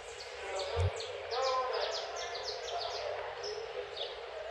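A flock of small birds chirping, many short quick chirps overlapping one another.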